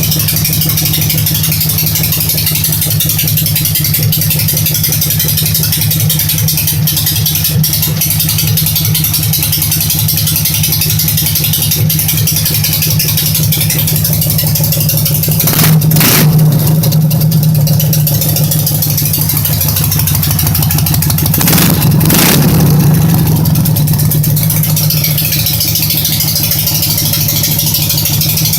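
Dnepr motorcycle's flat-twin engine idling steadily, revved up briefly twice, about halfway through and again some six seconds later.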